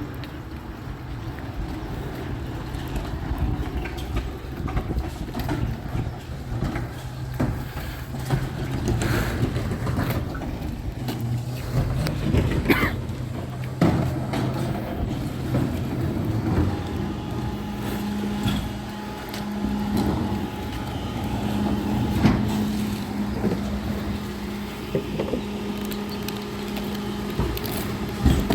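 Recycling truck's engine running steadily, stepping up to a higher steady pitch a little past halfway, with scattered clanks and knocks.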